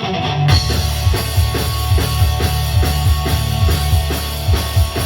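A loud rock band with distorted electric guitars, bass and a drum kit kicking into a song about half a second in, playing a fast, steady beat with no vocals yet.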